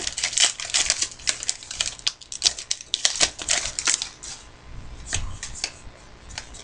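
Trading cards being handled and flipped through, a quick run of small clicks and snaps that thins out about four and a half seconds in.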